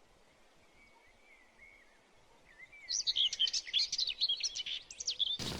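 A songbird singing: faint warbling at first, then about three seconds in a loud run of quick chirps and trills. Just before the end the sound cuts abruptly to a steady rushing noise.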